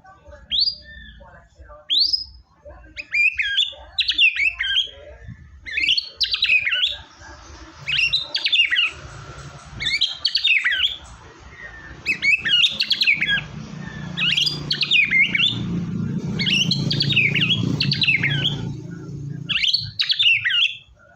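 White-rumped shama (murai batu) singing: two rising whistles, then a run of short, varied, fast-modulated phrases about once a second.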